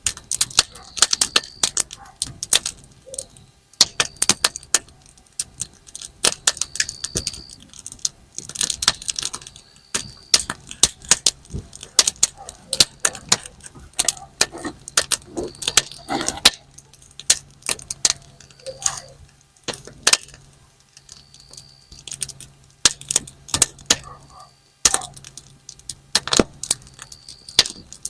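Campfire firewood crackling and popping: a steady stream of irregular sharp snaps, like snap-pop firecrackers going off.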